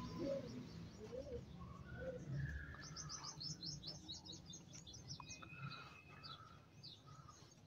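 Birds calling faintly: a few low arched calls in the first seconds, then a quick run of high chirps about three seconds in.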